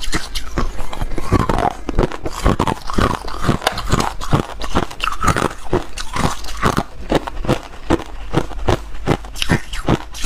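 A person biting and chewing ice, close to the microphone: a steady run of sharp crunches, about three a second.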